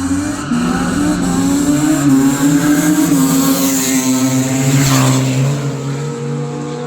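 Car engine running hard and loud, with a pitch sweep falling away about four to five seconds in as it passes, then settling to a steadier, lower engine note.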